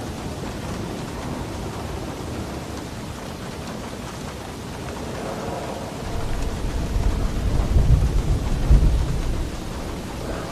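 Heavy, steady rain with a low roll of thunder that swells from about six seconds in, peaks near nine seconds, and dies away just before the end.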